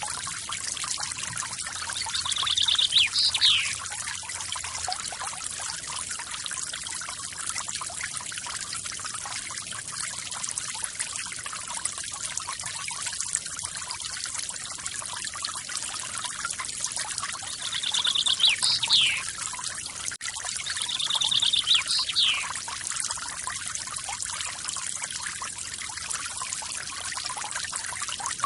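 Waterfall's steady rush of falling water, with a bird giving the same short call three times: a quick trill followed by a falling note.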